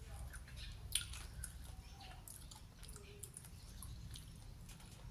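A person chewing food close to the microphone: scattered small wet clicks and smacks, one sharper click about a second in.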